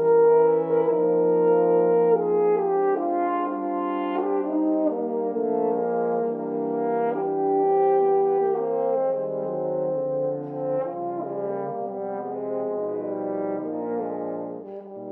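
Instrumental ensemble playing slow, sustained chords in several voices, the harmony shifting every second or two.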